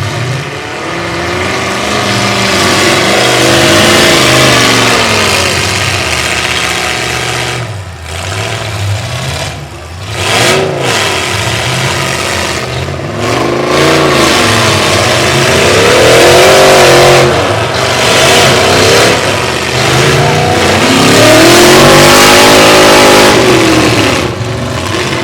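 Demolition derby truck engines revving hard, their pitch rising and falling again and again, with short dips about 8 and 10 seconds in.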